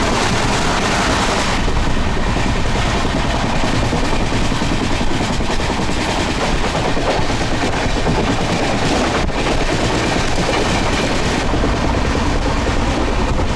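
Passenger train running, heard from inside the moving coach: a steady loud rumble and rattle of wheels on the track, with a single sharp click about nine seconds in.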